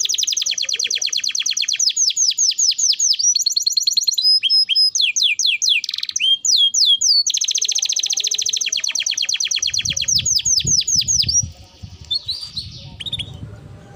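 Domestic canary singing a long, loud song of fast rolling trills that shift into slower sweeping notes midway, then back to trills. The song grows quieter with short phrases near the end, over a low rumble.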